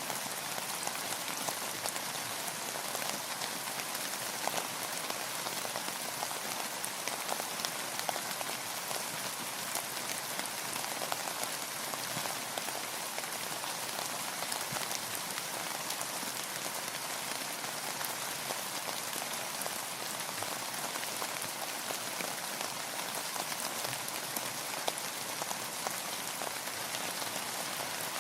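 Steady rain falling on a surface, with a constant patter and separate drops ticking.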